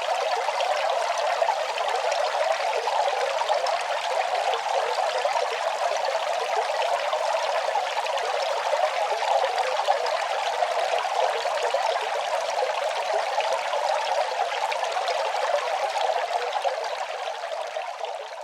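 Running water flowing steadily, an even rushing splash that starts to fade near the end.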